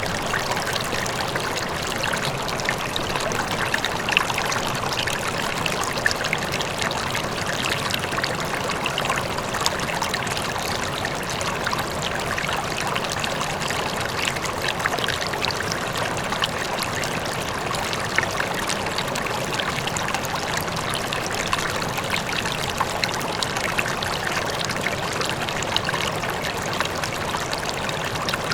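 River water flowing steadily over rocks, a continuous rushing and babbling with small splashes throughout.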